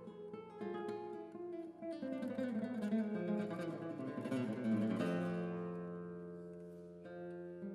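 Acoustic guitar music: plucked notes, then a chord about five seconds in that rings out and fades.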